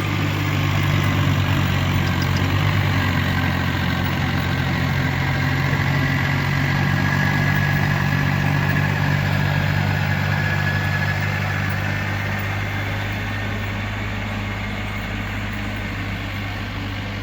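Engine running steadily, a low even hum with a faint high whine through the middle, easing off slightly toward the end.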